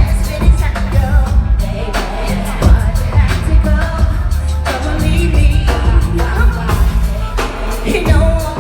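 Live concert music: an R&B song with singing over a loud, heavy bass beat.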